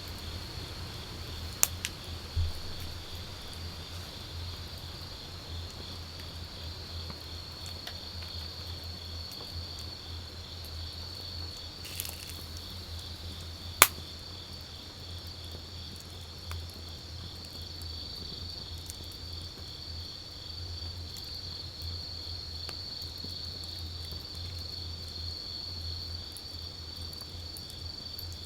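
Wood campfire crackling with a few sharp pops, the loudest about halfway through, over steady insect trilling.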